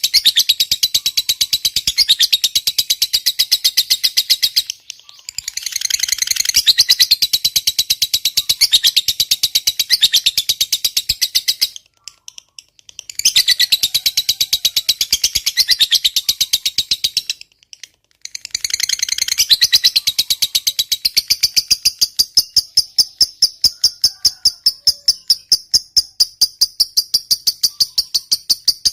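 Lovebird making its long, rapid chattering trill ("ngekek panjang"): a fast run of sharp, high notes, broken by three short pauses. In the last part it settles into an even, steady run of notes.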